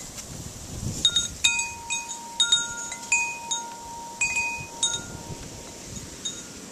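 Metal wind chimes ringing in strong blizzard wind: a run of irregular strikes at several different pitches starts about a second in, each note ringing on, and thins out after about five seconds. Some wind rustle on the microphone at the start.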